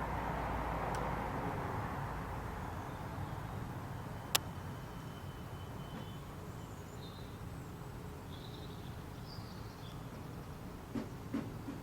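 Distant jet noise of a Boeing 747 cruising at high altitude overhead: a faint, even rumble that slowly fades. A sharp click sounds about four seconds in, and a few faint bird chirps come later.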